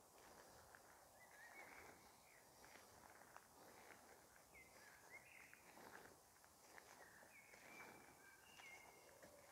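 Near silence: faint woodland ambience with a few distant bird calls, short whistled notes coming in small groups.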